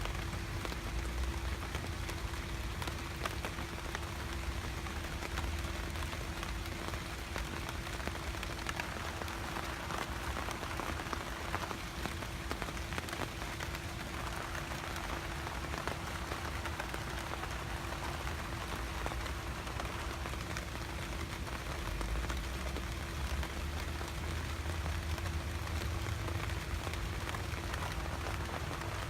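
Steady rain falling and pattering on a surface, with a faint steady hum beneath it.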